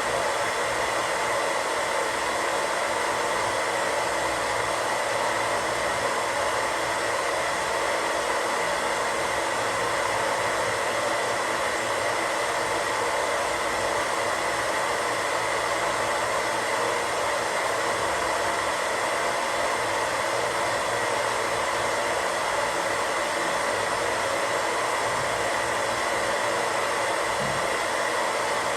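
Untuned radio static: a steady, even hiss that does not change.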